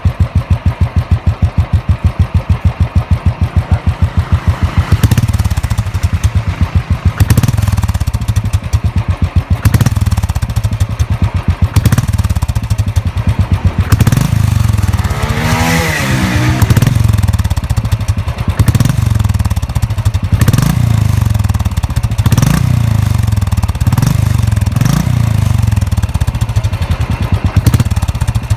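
Royal Enfield single-cylinder motorcycle engine idling with an even thump, then blipped on the throttle several times, with one longer rev about halfway through.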